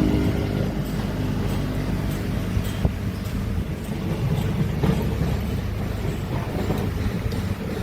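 Heavy earthmoving machine's diesel engine running steadily as a low rumble, with a few faint knocks.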